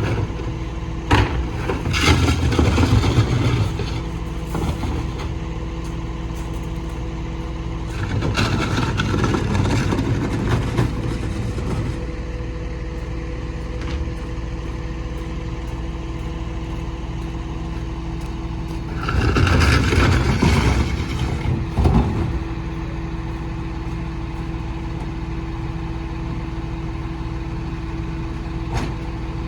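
Mini rear-loader garbage truck running with a steady hum. It grows louder and noisier three times: shortly after the start, about a third of the way in, and about two-thirds in. There are a few sharp knocks.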